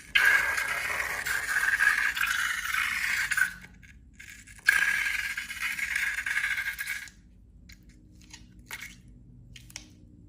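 Balloons and slime being handled and rubbed: two long scraping, rubbing stretches of a few seconds each, then a few light clicks near the end.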